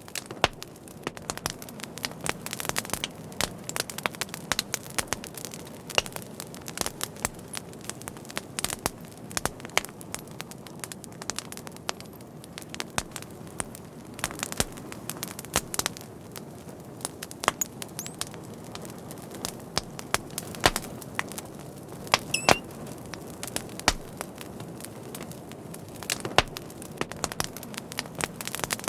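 Fire crackling: a steady low rush with frequent sharp pops and snaps, a few louder pops standing out. About 22 seconds in, a brief thin high squeal rises above the crackle.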